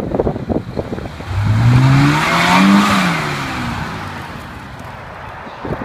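Suzuki SJ off-roader's engine revved hard as it pulls up out of a muddy rut. The pitch climbs for about a second and a half, peaks with a rush of noise, then falls away to a lower steady run.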